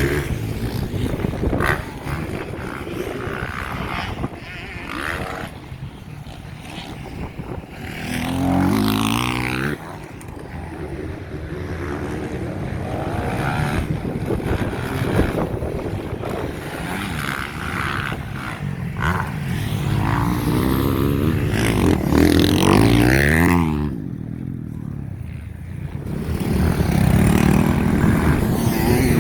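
Several motocross bikes revving hard and passing one after another, engine notes rising as they accelerate and dropping in pitch as they go by. The loudest passes come about a third of the way in, again near the end, and once more just before it closes.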